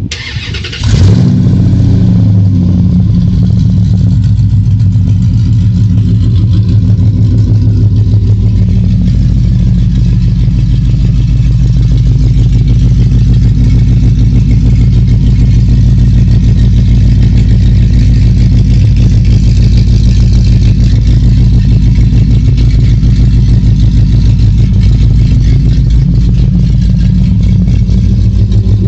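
Chrysler 5.7 Hemi V8 catching on a cold start about a second in, then running at a steady fast idle. It breathes through a straight-piped exhaust with a MagnaFlow bullet resonator and an open electric cutout.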